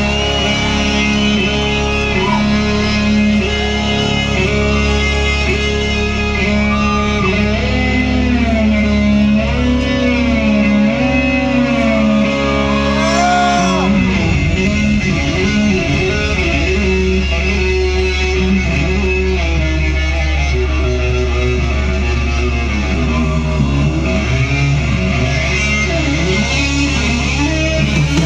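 Live rock band playing loudly: a lead line of sliding, bending notes over a steady low bass. The low part drops out briefly about halfway through, then comes back.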